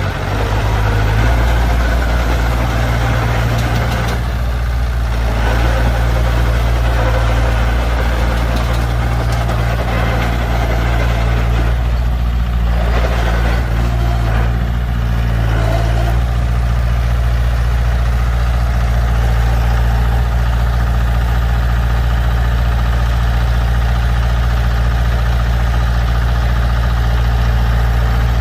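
Heavy diesel engine of a dump truck or bulldozer running steadily and loudly, with a deep, even note that steps up slightly about a second in.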